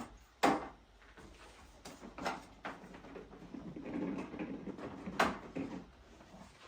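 Hard plastic parts of a pressure washer being handled and fitted together: a few sharp knocks and clicks, the loudest about half a second in, with scraping and rustling between them.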